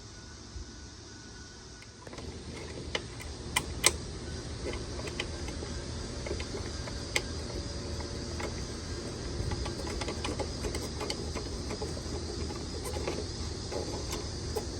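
Metal parts of a manual tile cutter clicking and rattling as it is handled and adjusted, with several sharp clicks, over a steady low hum that starts about two seconds in.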